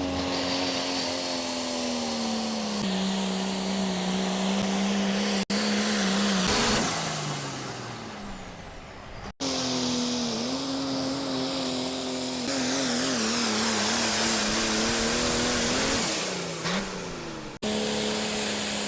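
Small electric motors of a Lego tractor whining steadily, the pitch sagging and wavering as they take the load of the pull. About seven seconds in they wind down with a falling pitch, and the sound breaks off abruptly three times.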